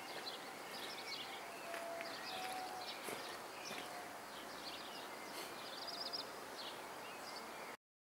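Small songbirds chirping and twittering in quick repeated phrases over a steady open-air hiss; the sound cuts off suddenly near the end.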